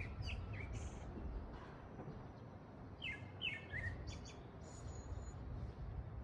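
Wild songbirds chirping: short, quick descending notes, with a run of three or four about three seconds in, over a steady low background rumble.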